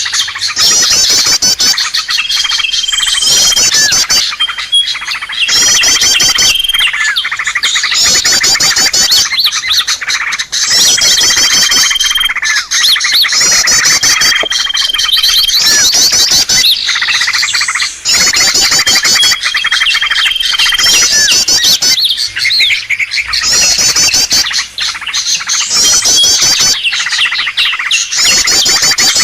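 Small-bird lure recording (suara pikat) played to draw small birds in: loud, dense chirping and fast high trills that repeat phrase after phrase, with a short, level whistle recurring every few seconds.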